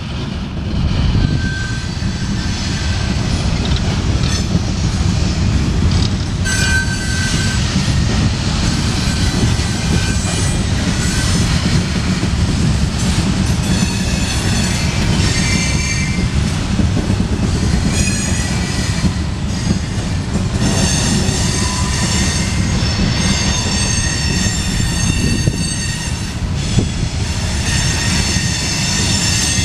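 Loaded coal hopper cars of a freight train rolling past with a steady, heavy rumble, their wheels squealing in high-pitched tones that come and go as the train rounds a curve, strongest in the second half.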